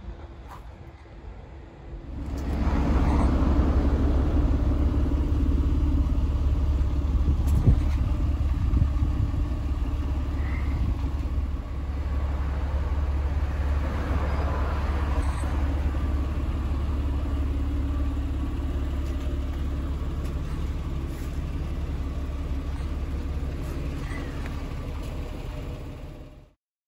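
Car engine running with a steady low rumble. It comes in about two seconds in, eases off slightly, and cuts off abruptly near the end.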